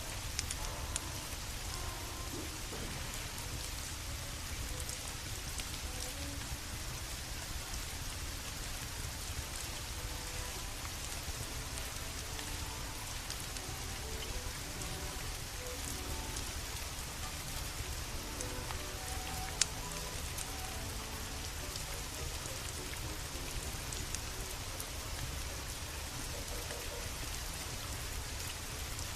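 Steady rain falling, with scattered sharp crackles and pops from a wood fire burning in a fireplace; one pop, about twenty seconds in, is louder than the rest.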